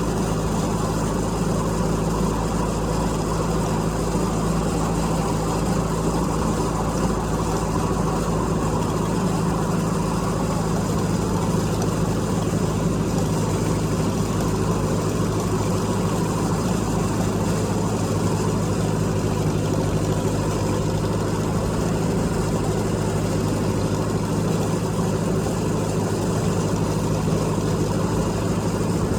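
Tractor engine running steadily with a brush hog (rotary cutter) mowing wet grass behind it, an even engine hum with no change in pace.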